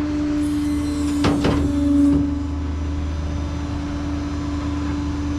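Tow truck engine idling with a steady drone and hum, swelling a little and with a few brief knocks about a second in.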